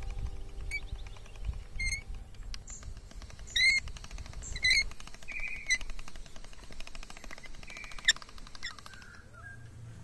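Small birds chirping in short, repeated calls. From about two and a half seconds in until near the end, a hand-cranked chrome pasta machine clicks rapidly and evenly as its rollers are turned to press a sheet of dough.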